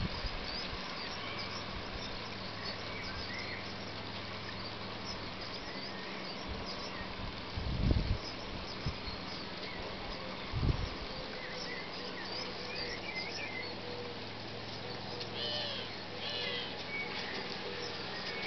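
Outdoor garden ambience: small birds chirping and singing over a steady low hum, with two brief low thumps about eight and ten and a half seconds in.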